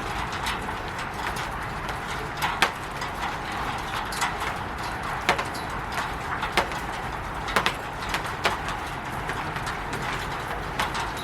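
Steady rain on a roof, with louder single drops or drips knocking at irregular moments, roughly every second or so.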